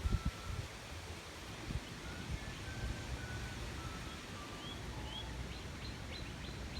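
A songbird singing: a run of short clear whistled notes stepping down in pitch, then a couple of rising slurred notes and quick high notes near the end. A few low thumps at the start, over a steady low rumble.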